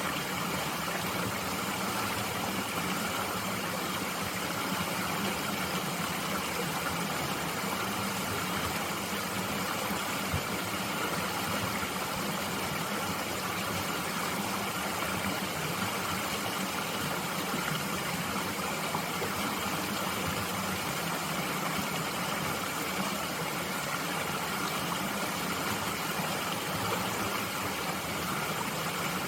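Steady rush of a small mountain stream flowing over rocks, even and unbroken.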